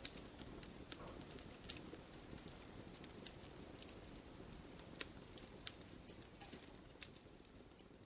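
Campfire burning: wood crackling with irregular sharp pops and snaps over a low steady rush of the flames. The loudest snap comes a little under two seconds in.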